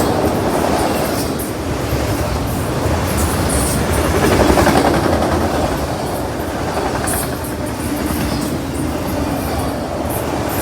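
Freight train cars rolling past, their wheels clacking over the rail joints with a steady rumble and scattered sharp high clicks.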